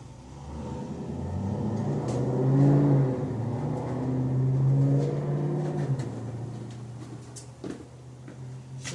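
A motor vehicle's engine running, growing louder over a couple of seconds, holding for a few seconds with small shifts in pitch, then fading away.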